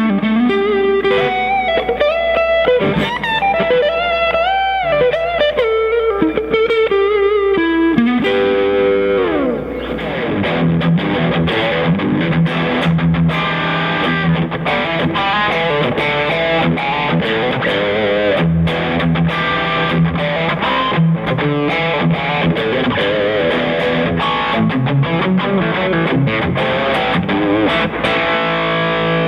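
PRS semi-hollow electric guitar with P90 pickups played through an amplifier. It plays single-note lead lines with string bends, then a downward slide about eight seconds in, then rhythmic chord strumming over a held low note for the rest.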